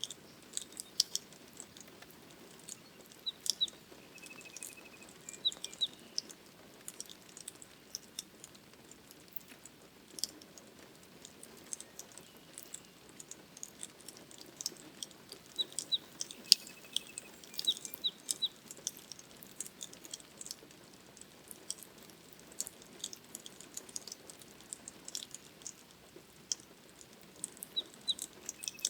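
Rain pattering as scattered sharp drips and ticks over a steady soft hiss, with a bird's short high chirps coming in a few brief groups.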